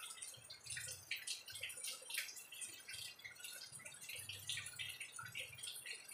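Close-up chewing of crisp unripe green mango dipped in shrimp paste: a dense run of small crunching and wet mouth clicks, with a soft low chewing rhythm about once a second.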